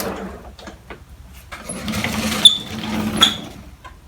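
A small machine running with a steady buzz that fades out, then returns, with two sharp metallic clinks a little under a second apart near the middle.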